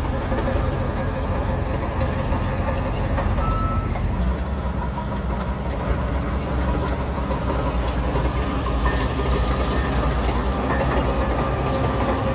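Shantui DH17C3 Pro bulldozer's diesel engine running steadily while working, with its low note shifting about four seconds in.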